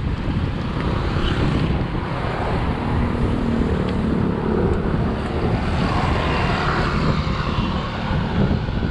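Steady wind rush buffeting the microphone of a camera on a moving bicycle, with motor traffic mixed in.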